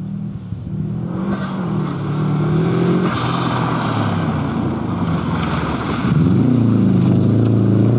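Subaru Impreza STI rally car's turbocharged flat-four engine, getting louder as the car approaches. Its note drops about six seconds in as it slows for a corner, then rises again as it accelerates out.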